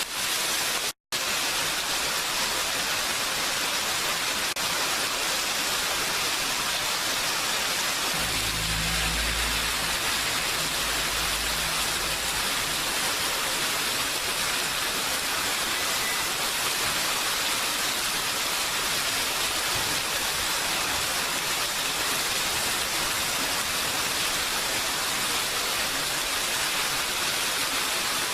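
Rain falling steadily, an even hiss. It cuts out for an instant about a second in, and a low rumble joins it for about five seconds from about eight seconds in.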